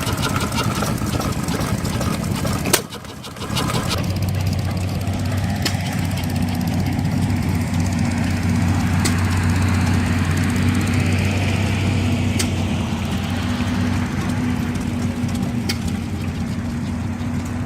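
An engine running steadily with a low, even hum, briefly dropping away about three seconds in before coming back.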